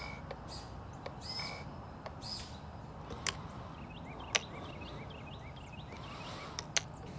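Small birds chirping in short, repeated calls, with a run of quick rising chirps later on. Three sharp clicks come through: about three seconds in, about four and a half seconds in, and near the end. Under it all is a steady faint background noise.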